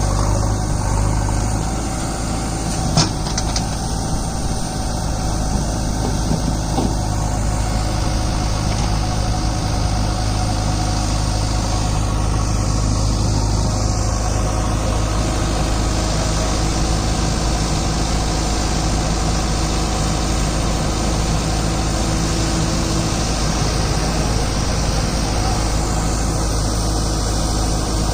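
Diesel engine of a JCB 3DX Eco backhoe loader running steadily, with one sharp knock about three seconds in.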